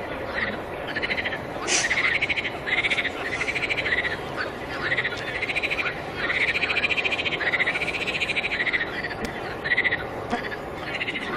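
Frogs calling in a chorus: repeated, pulsed croaking calls that rise and fall in pitch and overlap one another, over a steady background hiss.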